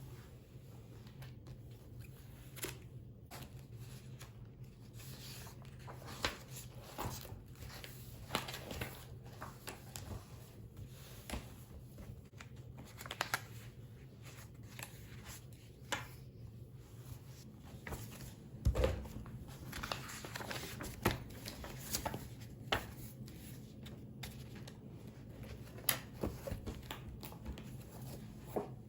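Close handling noises in a small room: paper rustling and shuffling with scattered light taps and clicks, loudest a little past the middle.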